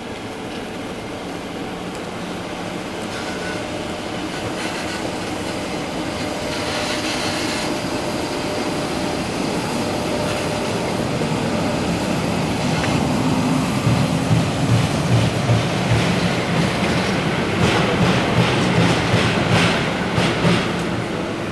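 JR Freight EF66 electric locomotive approaching and passing with a single container wagon, its motor hum growing louder. From about two-thirds of the way through, the wheels clack sharply and repeatedly over rail joints.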